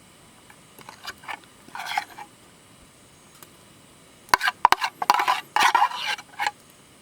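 Metal utensils clinking and scraping against cookware in a few short bursts, with a cluster of sharp clicks and scrapes in the second half.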